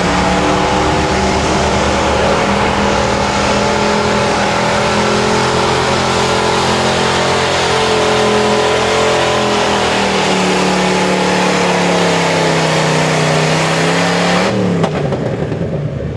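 Pulling truck's engine held at high revs under load as it drags a weight-transfer sled down the track. The pitch holds steady, sags for a few seconds past the middle as the load builds, then the sound cuts off abruptly near the end as the run ends.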